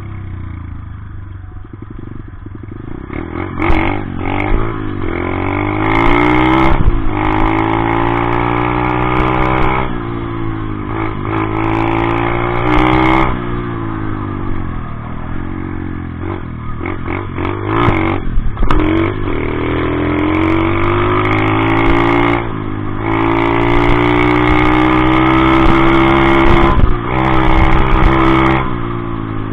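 Dirt bike engine revving hard under load. The pitch climbs and drops repeatedly as the rider accelerates, shifts and backs off, with a few sharp clatters in between.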